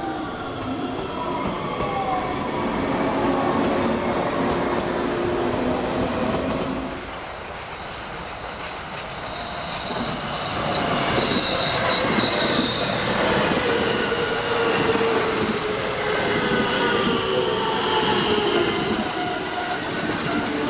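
JR West electric commuter trains at a station: one runs off close by, then after a short lull about seven seconds in another approaches and passes alongside on the near track. Wheels squeal high and steady as it comes in, and the motors' whine falls in pitch as it goes by.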